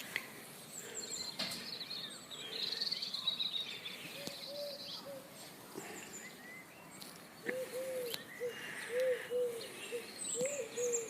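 Pigeon cooing in a repeated low phrase, starting about four seconds in and returning more steadily over the last few seconds. Smaller birds chirp higher up, mostly in the first few seconds.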